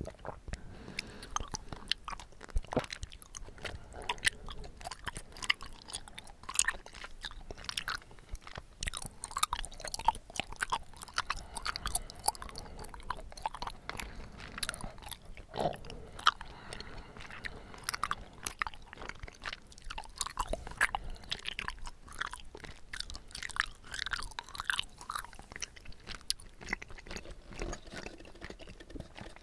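Close-miked chewing of chewy tapioca pearls from bubble tea: a steady run of wet mouth clicks and smacks.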